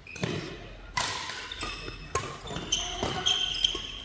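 Badminton doubles rally: sharp racket hits on the shuttlecock and footfalls, with shoes squeaking on the court floor, mostly in the second half.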